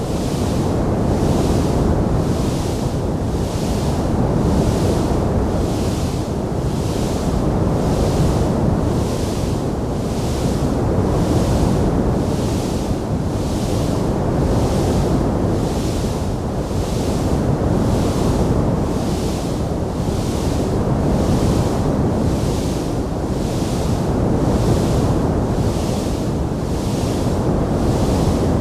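Steady rushing roar of a wood fire burning in a fireplace, with a hiss that swells and fades about once a second and no distinct pops or crackles standing out.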